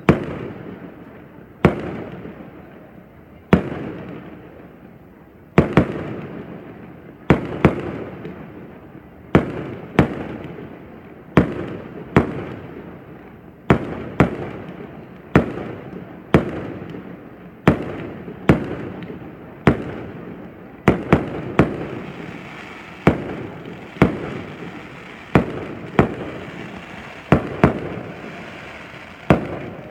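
Fireworks bursting overhead in a steady series of sharp, loud bangs, each trailing off in a rolling echo. They come every second or two, some in quick pairs, and closer together in the second half.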